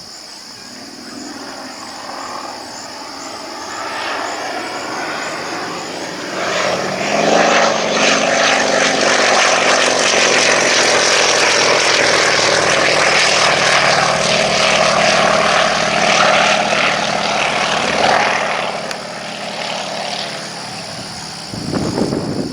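Pitts Model 12 aerobatic biplane's radial engine and propeller passing by. The engine sound builds over several seconds, stays loud for about ten seconds with its pitch slowly falling, then fades away.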